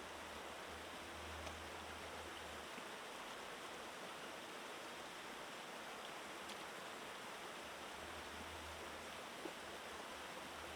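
Faint, steady rush of a flowing stream, with a couple of tiny clicks.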